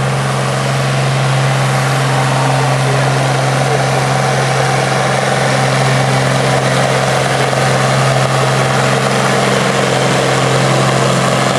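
Allis-Chalmers farm tractor engine running hard and steady under load during a tractor pull, a loud, even low drone that holds one pitch, swelling slightly after the first second.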